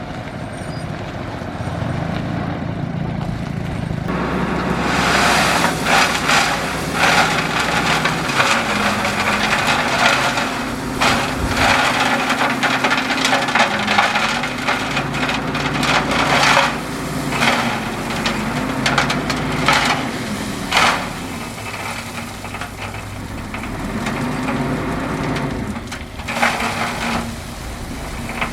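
Bulldozer's diesel engine running under load, its pitch rising and falling, while the blade pushes gravel with a steady grinding crunch and many sharp cracks of stone. The crunching starts about four seconds in.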